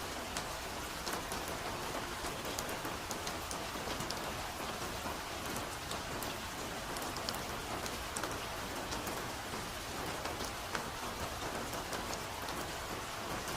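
Soft forest rain falling steadily, a continuous even hiss with many scattered close drops ticking sharply on top.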